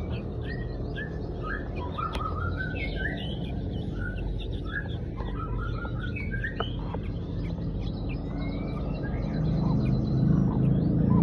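Young birds chirping, with many short, rising cheeps that overlap one another while they are being fed. A low hum grows louder near the end.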